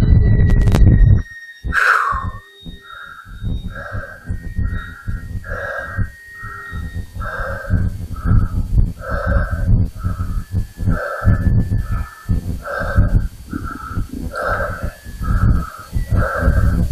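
A crow cawing over and over, a short harsh call about twice a second, with wind gusting on the microphone; the wind is heaviest in the first second.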